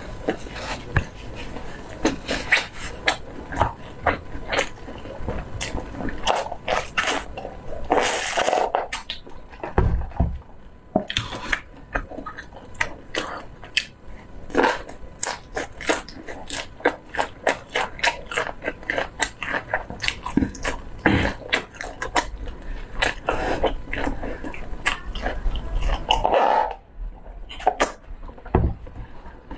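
Close-up chewing of sauce-coated grilled skewer food, full of wet mouth clicks and lip-smacks at an uneven pace. Twice, once about a third of the way in and once near the end, a short breathy hiss of air.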